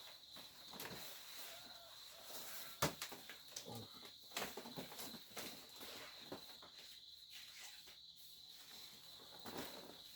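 Faint rural outdoor ambience: a steady high-pitched insect drone like crickets, with scattered footsteps and small knocks. One sharp click a little under three seconds in is the loudest sound.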